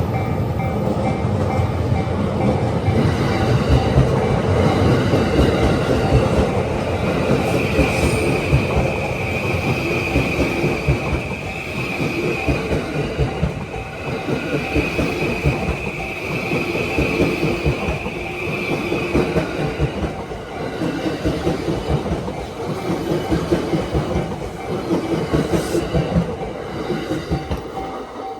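Yamanote Line electric commuter train passing over a level crossing: a loud, steady rush of wheels on rail with rhythmic clickety-clack over the joints. A high wheel squeal runs through the middle stretch, and the crossing's warning bell dings evenly in the background.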